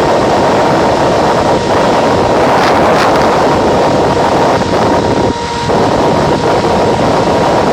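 Heavy wind buffeting a body-worn microphone on an electric motorcycle at road speed. There is a thin steady whine underneath and a brief lull about five and a half seconds in.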